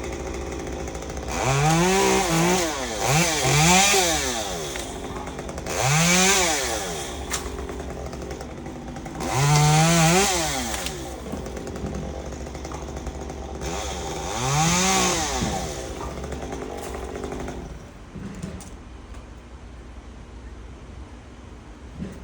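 Two-stroke chainsaw idling and being revved up and down five times, the pitch rising and falling with each burst. It falls quiet a few seconds before the end.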